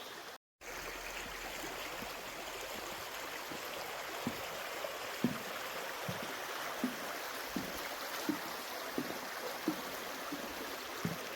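A stream running steadily over rocks. From about four seconds in, soft footsteps on the path come at a walking pace, roughly one every three-quarters of a second.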